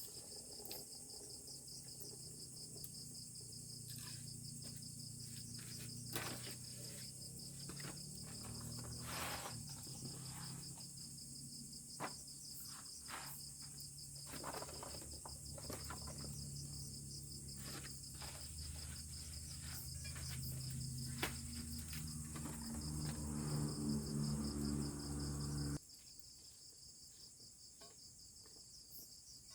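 Chorus of crickets and other insects, a steady high pulsing trill, with scattered sharp clicks and knocks over a low wavering hum that cuts off suddenly near the end.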